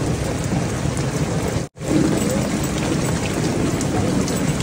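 Heavy rain falling steadily as an even hiss, broken once by a split-second dropout about a third of the way through.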